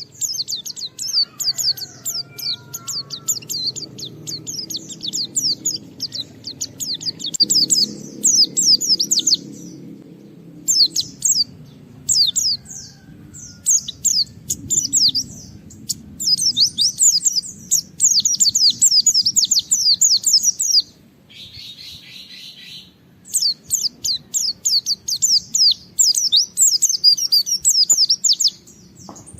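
White-eye (pleci) singing a fast, shrill, twittering song of rapid falling notes in long bursts with short breaks. About two-thirds of the way through comes a brief harsher, rasping call. A faint low hum runs underneath.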